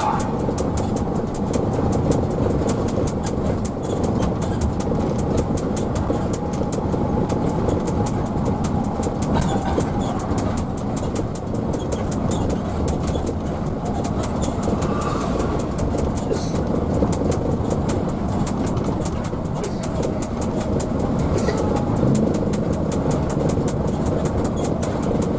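Hino AK bus running at speed, heard from inside the cabin: a steady engine drone and road noise with a fast, continuous rattle over it.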